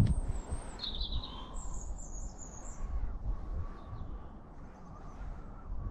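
Small birds chirping and twittering in short, high-pitched phrases, over a low, irregular rumble.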